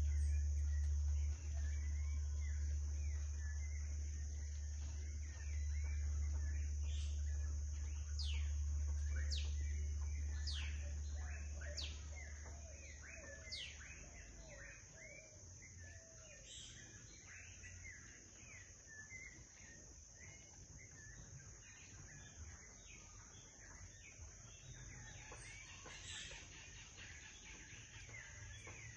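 Small birds chirping and calling over a steady high insect drone, with quick falling whistles clustered in the first half. A low rumble is the loudest sound for roughly the first half, then fades away.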